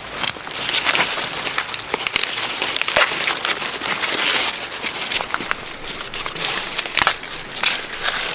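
Dry corn plants rustling and crackling, with many sharp snaps and clicks scattered throughout, as corn is harvested by hand.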